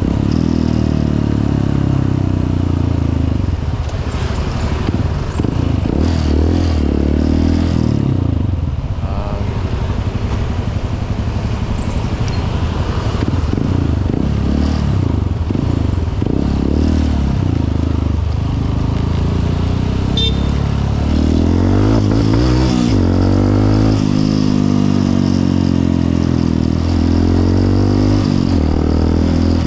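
Honda CRF150L's single-cylinder four-stroke engine running under way, its revs rising and falling again and again.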